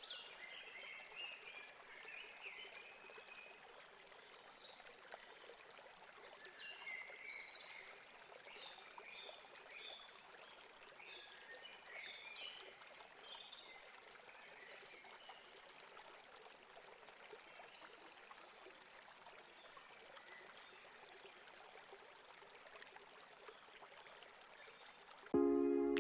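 A river flowing with a steady rush of water, with small birds chirping and calling over it, most often in the first half. Near the end it cuts off suddenly into loud synthesizer music.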